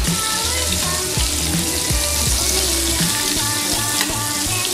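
Food deep-frying in hot oil, a steady hissing sizzle, with background music with a beat underneath.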